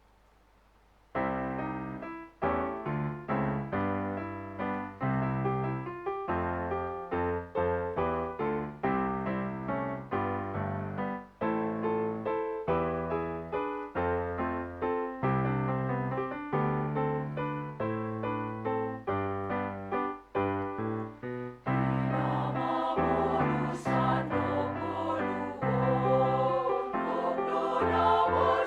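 A keyboard plays an introduction of separate struck chords, starting about a second in. About 22 seconds in, a women's choir comes in singing over it.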